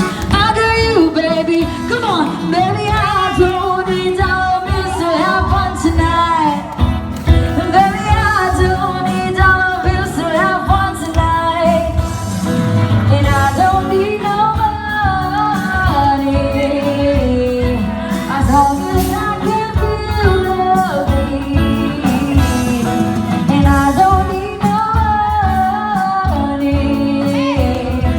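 Live acoustic band playing a pop song with singing over guitar and a steady beat.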